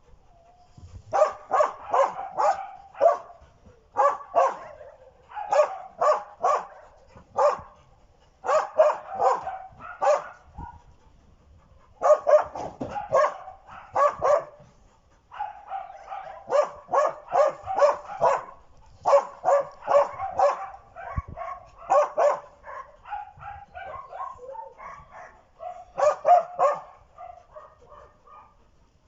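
A dog barking excitedly in rapid runs of three to five barks separated by short pauses, with a few longer drawn-out cries between runs: a dog being worked up during training.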